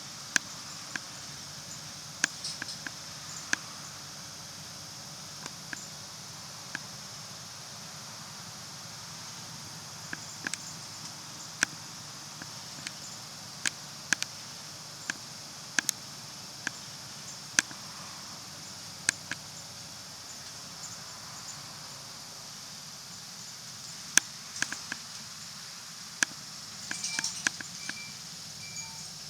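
Running sound heard inside a city route bus on the move: a steady low engine and road hum with a high hiss, broken every second or so by short sharp rattles and clicks, which bunch together near the end.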